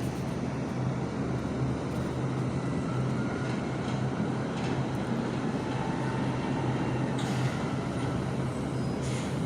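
Garbage truck engine running with a steady low rumble, with brief hisses about seven and nine seconds in.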